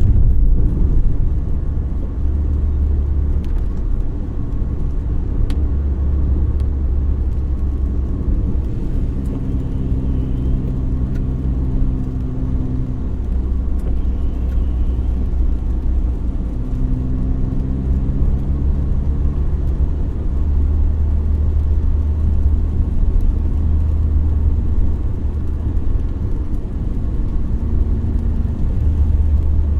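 Car driving along a road: a steady low rumble of road and engine noise. An engine hum comes up about a third of the way in and again just past the middle, holding steady for a few seconds each time.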